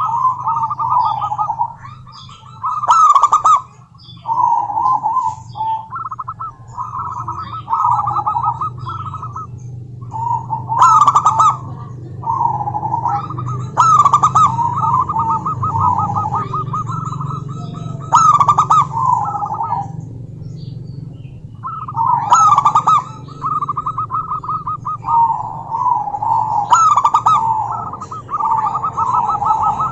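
Zebra doves calling: repeated phrases of rapid, staccato cooing notes, each lasting a second or two and coming every few seconds, over a low steady hum.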